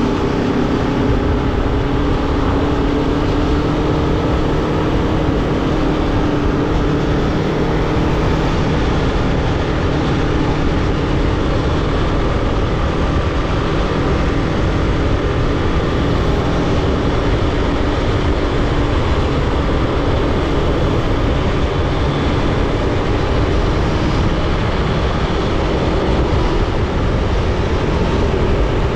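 Aprilia Tuono V4 motorcycle's V4 engine running at a fairly steady pitch while riding, over a heavy rush of wind noise.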